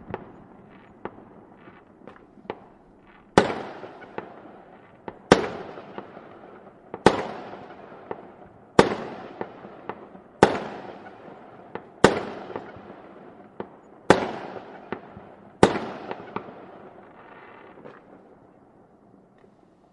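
Fireworks going off: eight loud bangs about every two seconds, each trailing off in a long echoing rumble, with smaller pops in between. The display dies away near the end.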